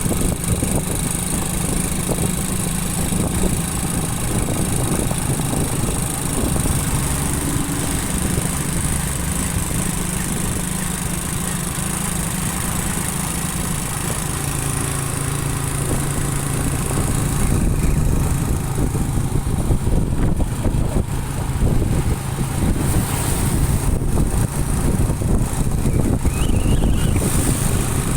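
Motorcycle engine running while riding along, with road and wind noise; the engine note drops a little about halfway through.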